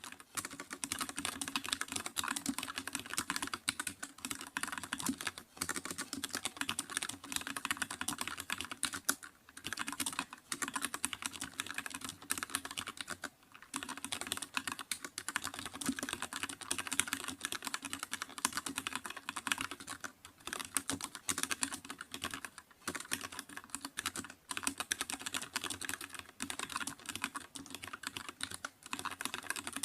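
Computer keyboard being typed on continuously: a fast, dense run of key clicks that breaks off briefly a few times.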